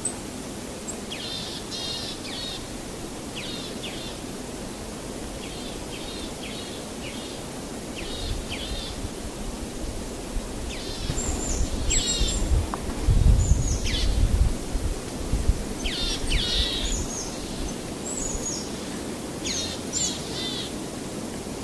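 Small birds chirping in short repeated calls over a steady background hiss, with a low rumble swelling up and fading away again in the middle.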